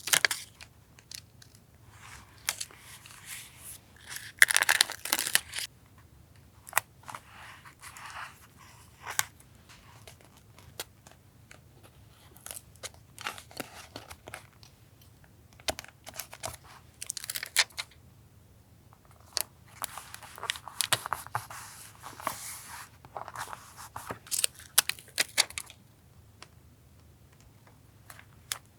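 Paper being handled for a journal collage: irregular bursts of rustling, tearing and crinkling, with sharp little clicks and taps in between and short quiet gaps.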